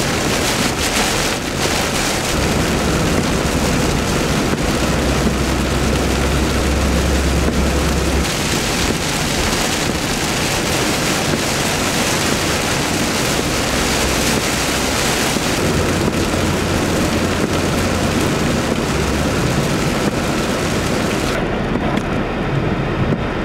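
Heavy rain hissing on a moving car, with tyre and road noise and deep rumbles of thunder a few seconds in and again past the middle. Near the end the hiss turns duller as its high end drops away.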